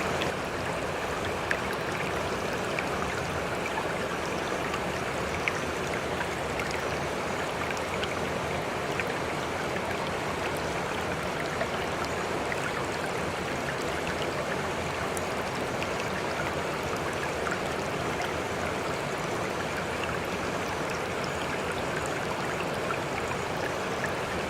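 A river running steadily, an even rush of flowing water with a few small scattered splashes.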